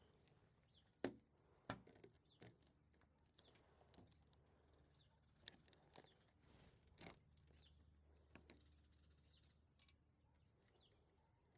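Near silence with a few scattered sharp clicks, the loudest two about a second in, and faint short bird chirps now and then.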